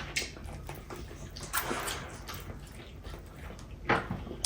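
Quiet, wet eating sounds of chicken biryani being eaten by hand, with a few soft smacks and clicks spaced a second or two apart.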